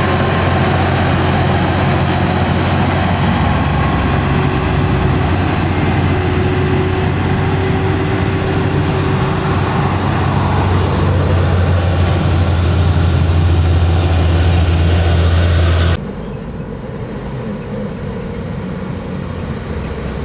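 Heavy diesel truck engine running loud and steady at a low pitch. About sixteen seconds in it cuts off suddenly to a quieter engine sound.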